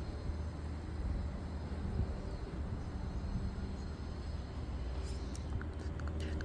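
Steady low drone of a distant Cessna 172S Skyhawk's four-cylinder piston engine and propeller as it climbs away. A few sharp clicks and short chirps come in near the end.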